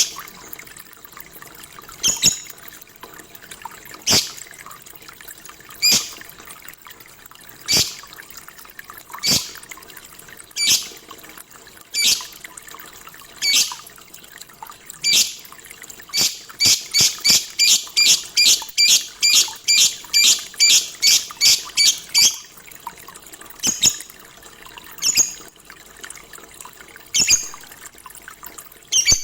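Lovebird giving short, sharp chirps, one every second or two, then a quick run of about three chirps a second for several seconds midway, before going back to single chirps.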